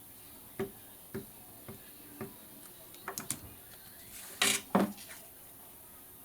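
Small tabletop handling sounds from paper crafting: four light taps about half a second apart, a quick run of clicks, then two louder short rustles about four and a half seconds in.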